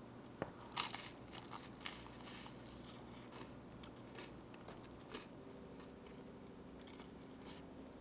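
Faint, scattered crinkling and crunching with small clicks: dry material being handled by hand, with the loudest crackles just under a second in and again near the end.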